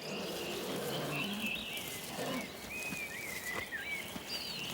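Songbirds singing outdoors: a string of short whistled phrases and slurred notes.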